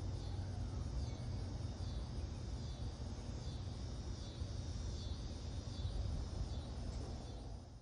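Outdoor garden ambience: a steady low rumble of wind on the microphone, with a faint high chirp repeating evenly, a little faster than once a second.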